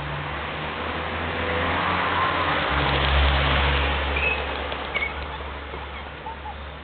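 A car passing by, its engine hum and tyre noise swelling to a peak about three seconds in and then fading away.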